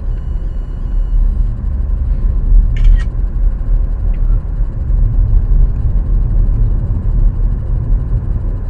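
Car driving on a road, a steady low rumble of road and engine noise, with a brief sharp higher sound about three seconds in.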